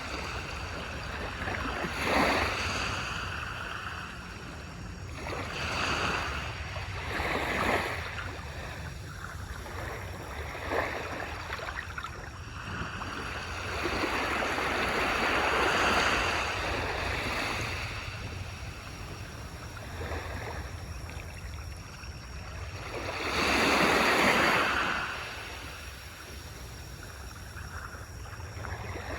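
Small waves washing onto a beach, the surf rising and falling in swells, with the biggest surges about two, six and eight seconds in, a long one around the middle and another near the end.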